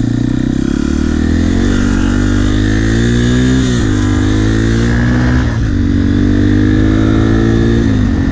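Yamaha TT-R250 dirt bike's single-cylinder four-stroke engine under way, pulling up through the gears. The pitch climbs, drops sharply at a shift about three and a half seconds in, climbs again to another shift near the middle, then holds fairly steady.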